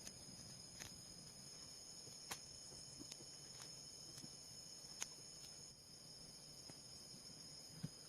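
Faint, steady high-pitched insect chirring, like crickets, with a few sharp clicks or taps at irregular intervals.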